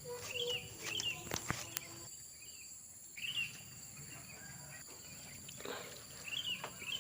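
Outdoor rural ambience: short chirping bird calls repeat a few times over a steady high insect drone, with two sharp knocks about a second and a half in.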